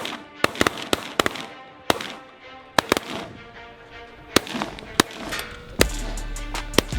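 A volley of shotgun blasts from several hunters firing at passing waterfowl: about ten sharp shots in irregular, quick succession, some only a fraction of a second apart. Background music plays underneath.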